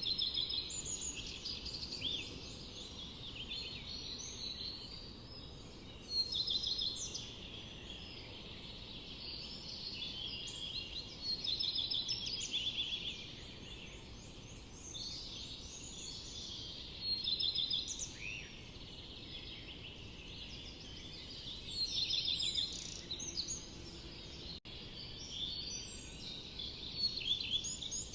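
Several songbirds singing in the forest at once, overlapping phrases of quick trills and repeated chirps, with a louder phrase standing out every few seconds over a steady low background hiss.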